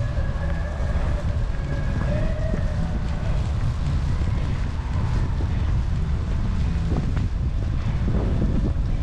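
Snowstorm wind buffeting the microphone in a steady low rumble, with faint street tones over it.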